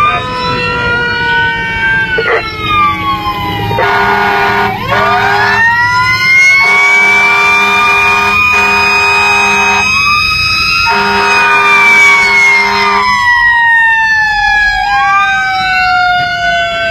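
A fire engine's siren wails up and down, with more than one siren sweeping at once. From about four seconds in to about thirteen seconds in, a steady blaring horn sounds in several long blasts over it, broken by short gaps, above a low engine rumble.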